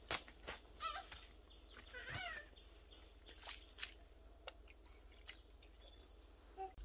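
Faint outdoor sound: scattered light taps and knocks, with short chirping bird calls about one and two seconds in.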